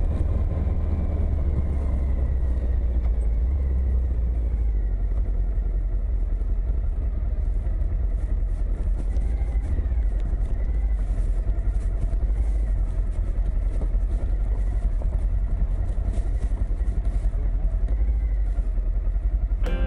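Suzuki V-Strom motorcycle riding at steady road speed: engine running under a heavy low rumble and rushing noise. Music comes in right at the end.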